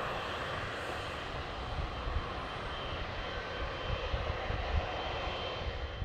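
Jet airliner on approach to land: a steady rushing engine noise with a faint high whine, its high end slowly dying away.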